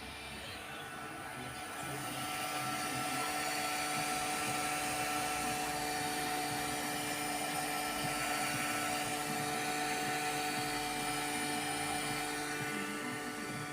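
Motor of a large radio-controlled boat running with a steady high whine; it gets louder about two seconds in and eases slightly near the end.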